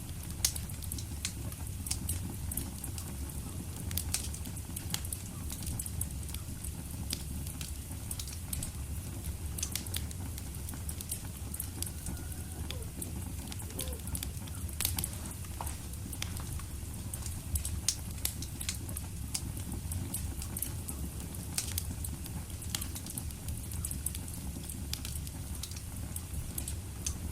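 Wood fire crackling in a fireplace: a steady low rumble of the flames under frequent sharp, irregular pops and snaps.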